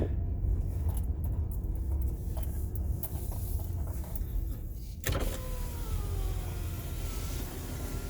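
Van's power window motor running as the driver's window is lowered, over the low rumble of the idling engine. About five seconds in there is a sharp clunk, and after it louder outside noise is heard through the open window.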